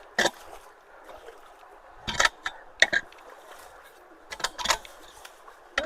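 Water running through a culvert, broken by several short, sharp splashes as leaves and debris are worked out of it: one just after the start, two about half a second apart a little past two seconds in, and a quick pair about four and a half seconds in.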